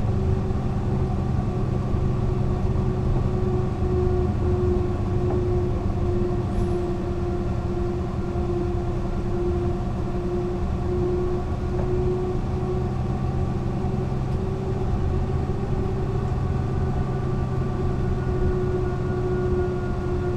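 Mercedes-Benz O 405 NÜ low-floor bus running at a steady pace: a constant engine and drivetrain drone with a steady whine above it. The pitch holds nearly level, easing slightly and then rising a little near the end.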